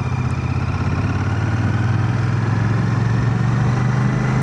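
Royal Enfield Shotgun 650's parallel-twin engine running steadily, heard as a low hum through a microphone inside a full-face helmet.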